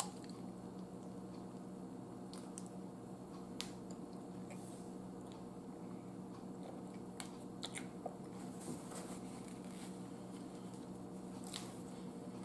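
Close-miked mouth sounds of a person chewing a chicken salad sandwich on soft bread: soft, wet chewing with scattered small clicks, over a steady low hum.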